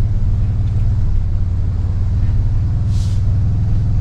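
Low, steady rumble of a Toyota Tundra crawling along a rocky off-road trail, heard from inside the cab, with a brief hiss about three seconds in.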